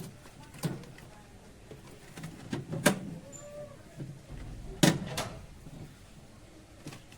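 A few sharp knocks and clicks of handling, like a small door being opened and shut. The two loudest come close together about five seconds in.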